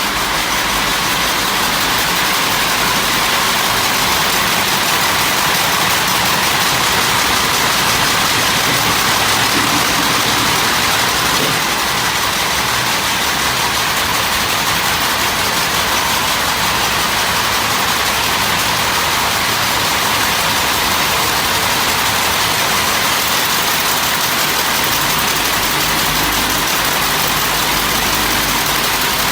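Steady, loud machinery noise running without a break, an even hiss-like din with no distinct strokes or changes.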